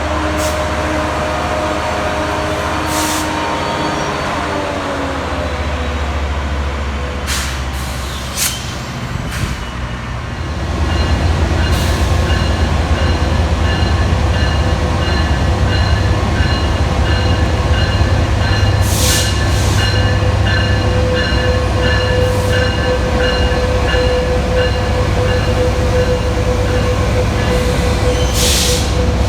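Passenger trains at a station: a whine that falls in pitch over the first few seconds, then from about ten seconds in a louder low rumble with a fast, steady repeated ringing above it and a few sharp clanks.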